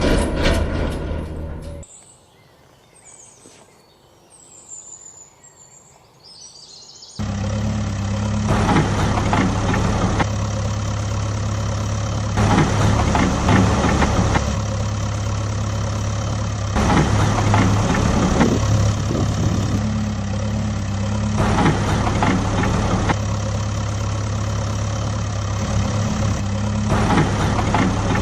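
Vehicle engine idling with a steady low hum, swelling in short louder surges about every four to five seconds. It drops away about two seconds in, leaving a quieter stretch with faint bird chirps, and cuts back in abruptly after about seven seconds.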